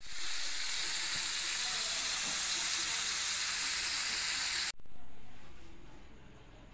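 Sparrows frying in a hot pan, sizzling steadily. The sizzle cuts off abruptly near the end, then a quieter sizzle fades away.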